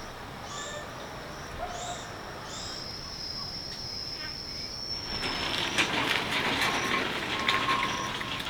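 A steady high-pitched buzz with a few short chirps over it, then rustling and clattering from about five seconds in.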